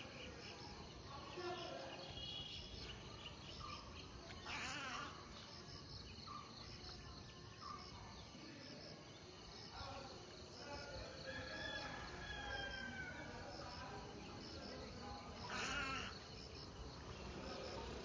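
Several birds calling, with whistled and chirped notes and two louder rapid chattering calls, one about four seconds in and one near the end, over a regular high insect chirping.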